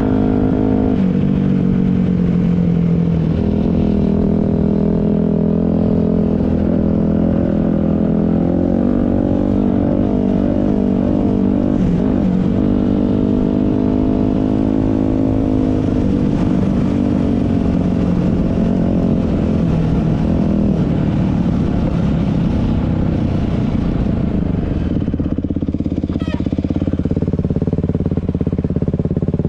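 Dirt bike engine running while riding, its note shifting up and down in pitch several times as the throttle and speed change.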